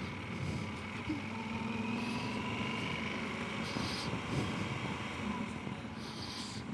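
Steady rumble of a vehicle travelling along a road, with a faint whine that slowly drifts up and down in pitch.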